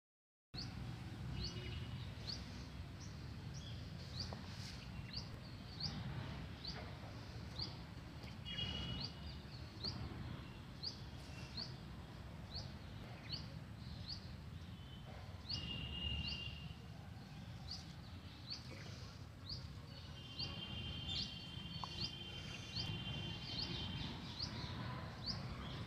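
A bird calling over and over with short, high, downward chirps, about one or two a second, with a steadier high whistling tone in places, over a low rumble of wind or handling noise.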